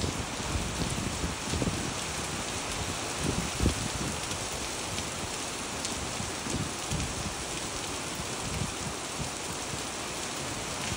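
Steady rain falling on wet pavement and puddles: a dense, even hiss of splashing drops, with irregular low rumbles underneath.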